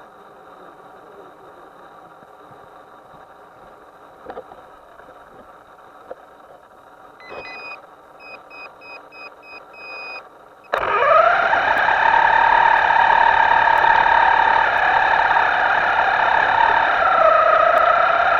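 A series of short high electronic beeps, then a motor starts abruptly and runs steadily and loudly, its pitch shifting a little near the end.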